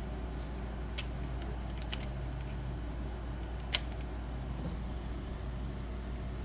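Steady hum of a running fan, with a few short light clicks of hand tools on metal, the sharpest just before four seconds in.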